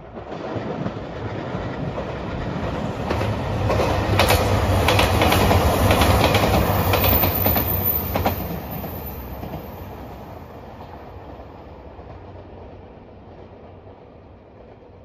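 JR Shikoku 2700 series diesel limited express train (red Anpanman train) passing: a low diesel engine drone with the wheels clicking over rail joints, loudest about four to eight seconds in, then fading away as it moves off.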